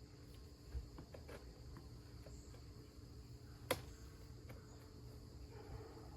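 Faint steady chirring of crickets, with a few light clicks and knocks from hive parts being handled; the sharpest knock comes a little past halfway through.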